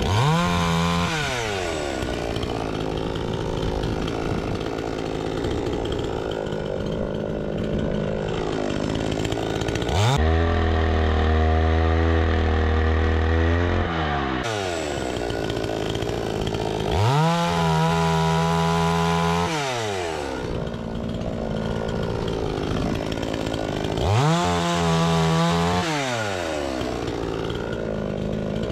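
Two-stroke chainsaw cutting fruitwood firewood. It is revved up sharply four times, each time held at high speed for one to four seconds, then falls back to a lower running speed between the cuts.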